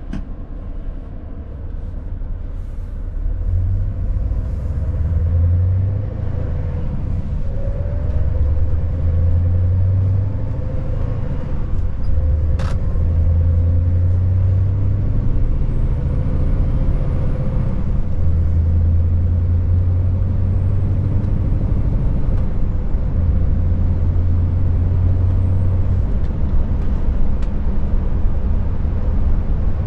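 Scania S580's V8 diesel engine driving the truck, a loud low rumble that builds over the first few seconds, then swells and eases every few seconds. A single sharp click sounds about halfway through.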